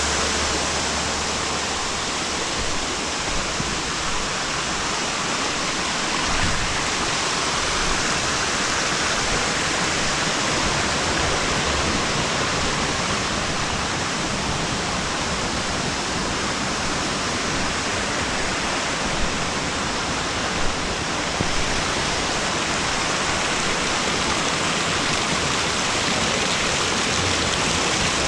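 Steady rushing of flowing water, a stream or small waterfall running close by.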